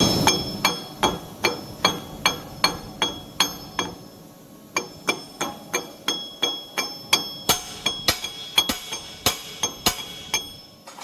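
Hammer striking metal repeatedly, about two to three blows a second, each with a short metallic ring, pausing briefly about four seconds in.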